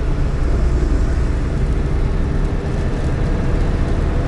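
Steady engine and road rumble of a GAZelle Next van heard from inside the cab while driving.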